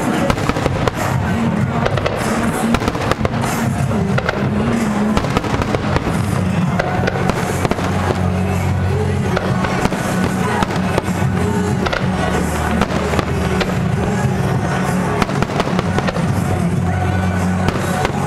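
Fireworks shells bursting in rapid, irregular bangs over music playing through a sound system.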